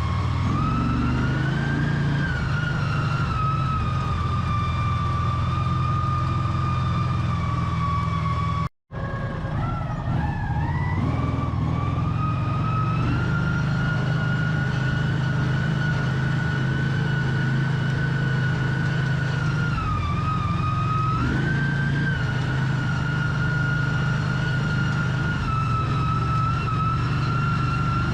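American Landmaster L5 UTV with its 570cc Vanguard engine driving steadily: a low engine drone under a loud high whine that drifts up and down with speed. A sudden brief dropout about nine seconds in.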